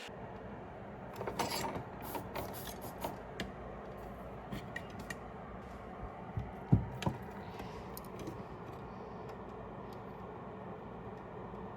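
Light clicks and taps of small metal tools and parts being handled during electronics repair work at a bench: a cluster from about one to five seconds in, a sharper knock just before seven seconds, then a few faint ticks, over a steady low hum.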